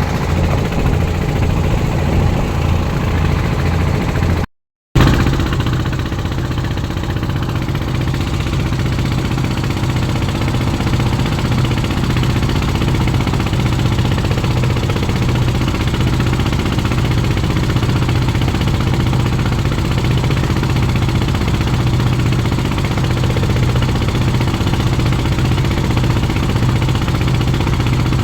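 Small boat's motor running steadily with a low hum, over a rushing noise. The sound cuts out completely for about half a second some four and a half seconds in, then carries on at a slightly different pitch.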